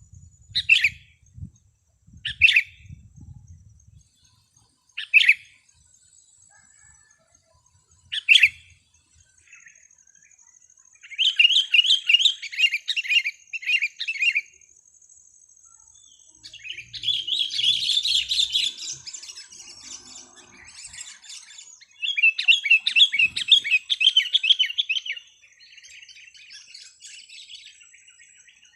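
Sooty-headed bulbul calling loudly: four short, sharp calls a few seconds apart, then three bursts of rapid chattering song, with a fainter phrase near the end. This is the loud kutilang song used to lure wild bulbuls.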